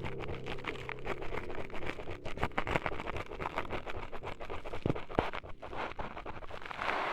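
ASMR scratching and cutting noises close to the microphone: a dense run of quick crackles and scrapes with two sharper clicks about five seconds in, over a low steady hum. A hissing noise swells near the end.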